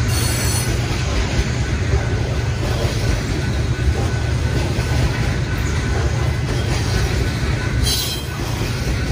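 A train passing on a BNSF line, its wheels making a steady, low rumble on the rails. There is a brief high-pitched sound just after the start and another near the end.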